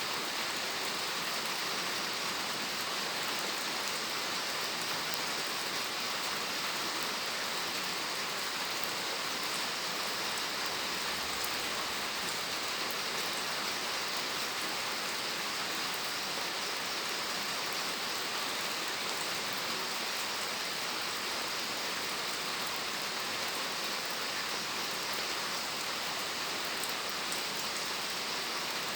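Steady rain falling, an even hiss of many drops with scattered fine drop ticks.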